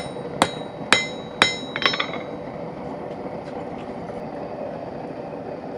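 Blacksmith's hammer striking iron on an anvil with a bright ring, about five blows in the first two seconds, the last two in quick succession, then the hammering stops and only a steady hum remains.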